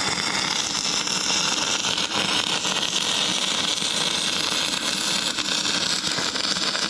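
Stick-welding arc burning steadily with a 6011 electrode from an inverter arc welder on rusty, painted metal: a continuous sizzling crackle that cuts off suddenly when the arc is broken at the end of the bead.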